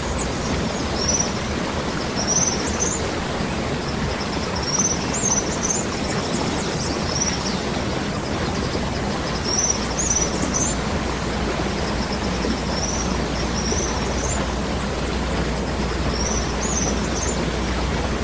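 Waterfall water rushing steadily. A bird repeats a short, high chirping phrase every couple of seconds over it.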